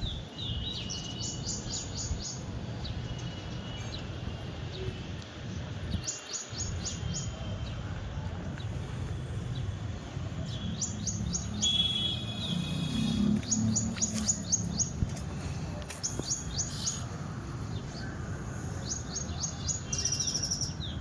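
Small birds chirping: quick runs of short, high chirps repeated every few seconds over a steady low background noise.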